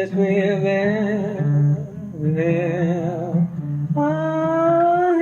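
A solo singer holding long, wavering wordless notes over a plucked acoustic guitar.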